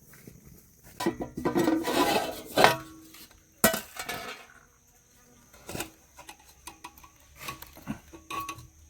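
Metal cookware and utensils clattering: a spoon scraping and knocking against a metal pot, with a burst of scraping early on followed by a few separate sharp clinks.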